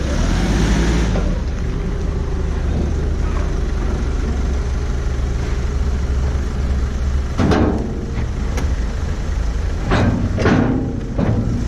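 Vehicle engine running steadily at idle, with a few sharp knocks in the second half.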